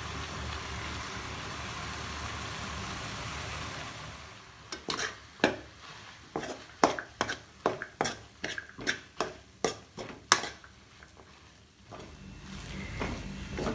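Vegetable and potato stuffing sizzling steadily in a pan. About five seconds in, a spatula starts knocking and scraping against the pan about twice a second as the mashed potato is mixed into the vegetables. The knocking stops about three seconds before the end, and the sizzle comes back.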